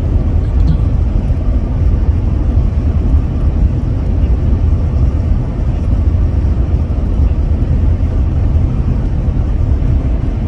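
Steady low road and engine rumble inside a vehicle's cabin while it drives at highway speed.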